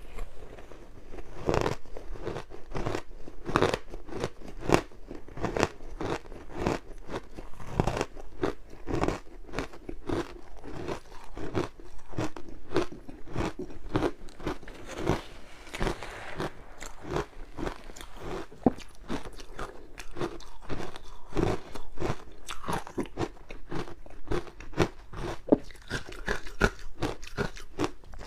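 Frozen matcha ice being bitten and chewed close to the microphone: a continuous run of sharp crunches and crackles, several a second.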